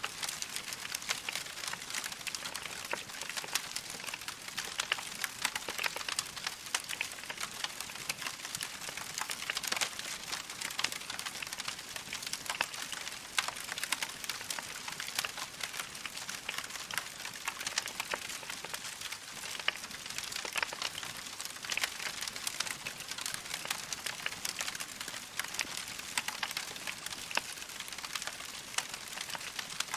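Wood fire crackling steadily in a fireplace, with a dense stream of small sharp pops and snaps over a soft hiss.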